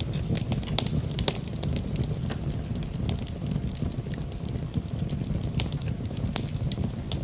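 Wood fire crackling in a fireplace: irregular sharp pops and snaps of burning wood over a steady low rumble of flames.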